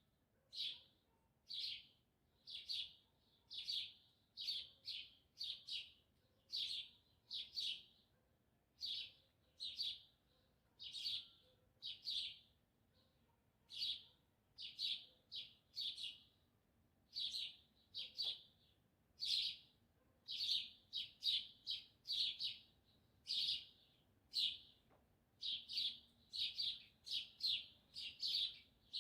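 A small bird chirping over and over, short sharp cheeps at about one and a half a second, often in quick pairs, with no other calls.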